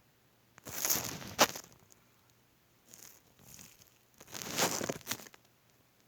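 Two bursts of rustling, crinkling noise, each about a second long, with a sharp click in the first, and softer rustles between them.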